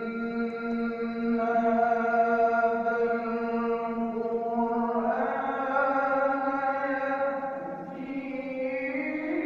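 Melodic Qur'anic recitation (tilawah) by a qari: a single voice holds one long steady note, moves up to a higher note about five seconds in, and bends in pitch again near the end.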